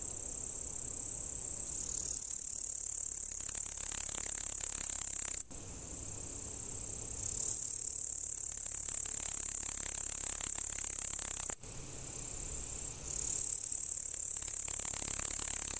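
Male singing bush-cricket (Tettigonia cantans) stridulating: a continuous, high-pitched, buzzing trill. It breaks off suddenly twice, and each time it comes back softer and swells to full loudness within a second or two.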